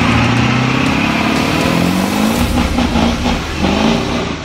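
A motor vehicle engine revving: its pitch climbs steadily over the first couple of seconds, then it gives several short blips of the throttle.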